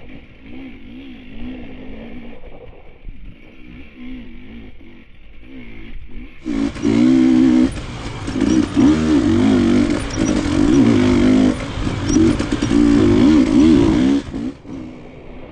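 KTM enduro dirt bike engine revving up and down on a muddy trail, its pitch rising and falling with the throttle. About six seconds in it gets much louder under harder throttle and stays so until shortly before the end, when it drops back.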